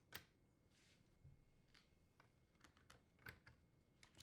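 Faint, scattered metallic clicks of needle-nose pliers working a wire cross brace loose from a dishwasher's door hinges; the louder ones come about a second into the sound and a little past three seconds.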